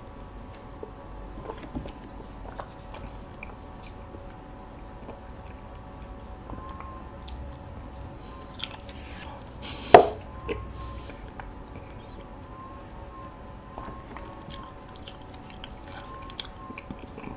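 Close-miked chewing of hodu-gwaja (walnut cakes): soft mouth sounds and small clicks, with one sharp, loud knock about ten seconds in.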